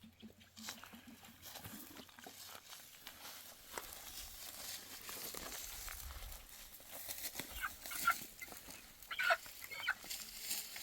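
Dry rustling and crunching with many small crackles, typical of wheat stalks being handled and cut by hand. A few short animal calls come in about eight to ten seconds in.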